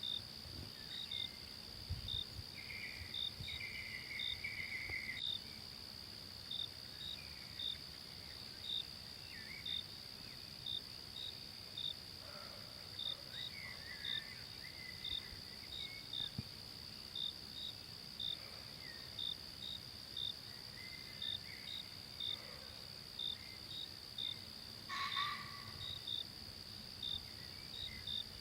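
Forest insect chorus: a steady high-pitched drone under a cricket chirping evenly about one and a half times a second. Brief scattered calls come and go, with a louder one about 25 seconds in.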